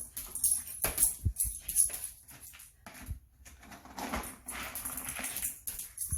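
Scattered clicks and taps with a light metallic jingle, most of them in the first half, then a soft rustling stretch.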